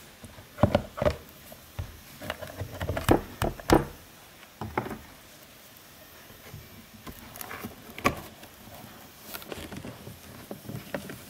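Irregular knocks, clicks and taps of fan parts being handled and fitted by hand, busiest in the first four seconds, with another sharp knock about eight seconds in.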